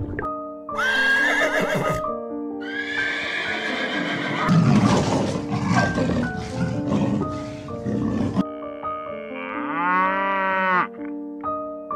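Light background music with held notes, with several animal calls laid over it: a high call about a second in, a longer run of rough calls from about three to eight seconds, and a drawn-out call that rises and falls in pitch near the end.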